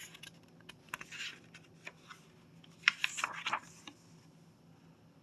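Paper handling as a book page is turned: two quiet bursts of rustling with small clicks, about a second in and about three seconds in.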